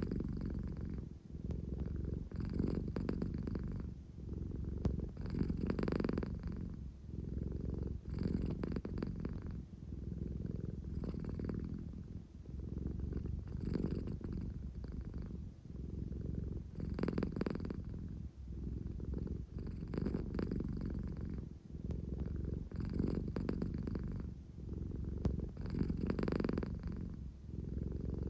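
An American Shorthair cat purring close to the microphone, a steady low rumble that swells and eases with each breath, about every three seconds.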